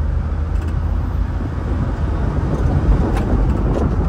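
Honda Acty kei truck on the move: its small engine and road noise, heard from inside the cab as a steady low rumble.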